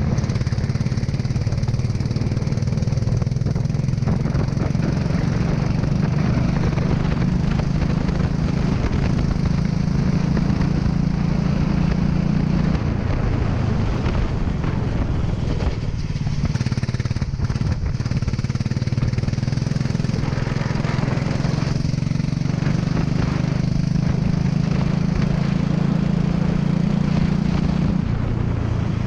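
Racing kart engine running hard throughout. Its pitch drops sharply about thirteen seconds in and again near the end as the throttle is lifted, then climbs steadily back up. A steady hiss runs over it.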